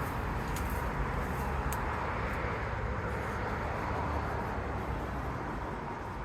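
Steady road-traffic rumble that slowly fades away.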